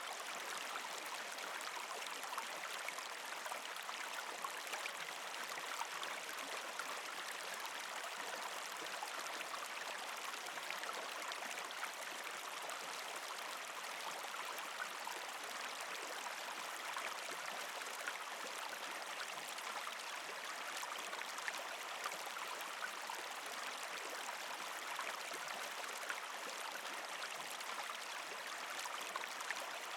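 Shallow creek flowing and gurgling over rocks, a steady rush with many small splashes and ticks. The creek is partially iced over.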